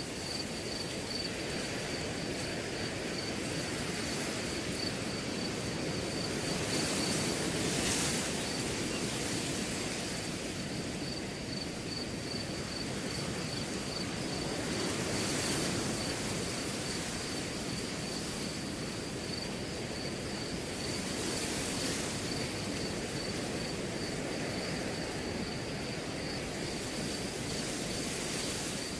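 Wind blowing through grass, swelling in gusts three times, over crickets chirping in a steady, rapid high-pitched trill.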